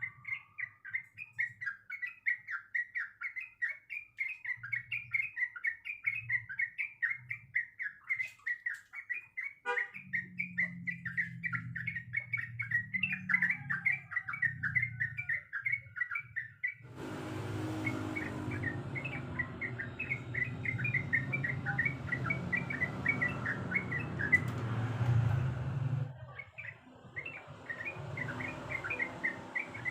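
Trucuk (yellow-vented bulbul) singing a long, fast chattering song of quick repeated notes. A low hum comes in about a third of the way through, and a rushing noise covers the song for several seconds in the latter half.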